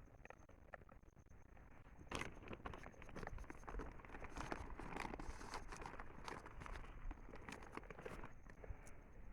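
A monkey chewing and handling corn: a dense run of faint crackling and clicking that starts about two seconds in and stops shortly before the end.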